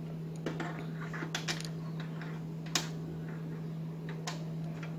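Light, irregular clicks and taps of a Torx screwdriver and fingers working screws out of a projector's plastic case, with a sharper click near the middle and another late on, over a steady low hum.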